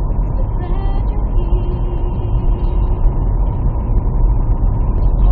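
Steady low rumble of a car driving, engine and road noise heard inside the cabin, with faint radio music underneath.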